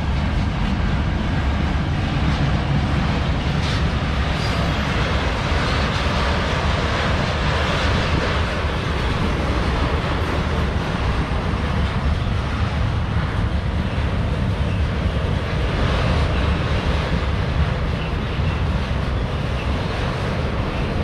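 CSX freight train rolling past, a steady rumble of wheels on rail and cars that does not let up.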